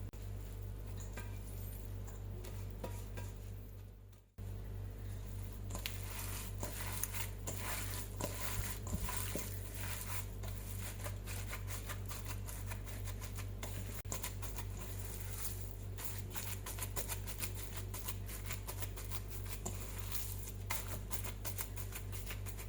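Beef mince mixture being mixed in a bowl: a dense run of soft, wet squishes and small clicks over a steady low hum. It is sparser at first, breaks off briefly about four seconds in, then runs on thickly.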